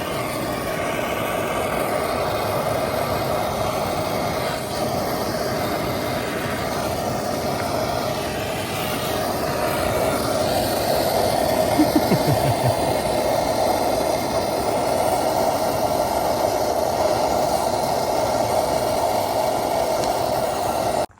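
Gas torch burning with a steady, even rush, heating the stock exhaust's joint to free it for removal. It cuts off suddenly at the end.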